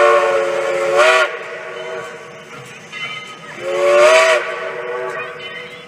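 Steam locomotive whistle sounding two blasts, each a chord of several tones at once, over a steady hiss of steam. The first blast ends about a second in; a second, shorter blast starts about three and a half seconds in and trails off.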